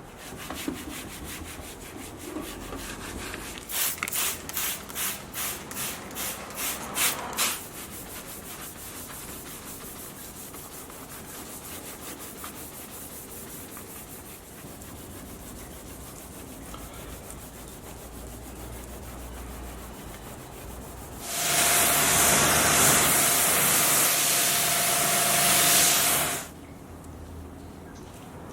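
Car detailing work: about ten quick scrubbing strokes, then steady rubbing. Near the end comes about five seconds of loud hissing with a steady whistle tone, which cuts off suddenly.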